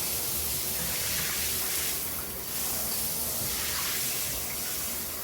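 Running shower spraying water in a steady hiss.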